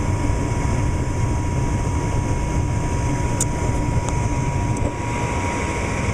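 Gas furnace running: a steady low rumble of its fan with a thin constant tone over it, and a small click about three and a half seconds in.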